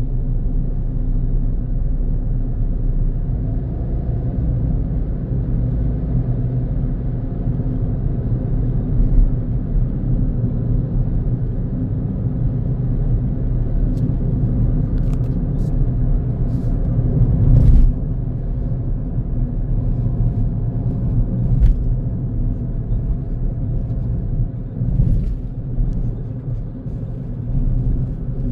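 A car driving along a road: a steady low rumble of engine and tyre noise, with a few short ticks and knocks about halfway through.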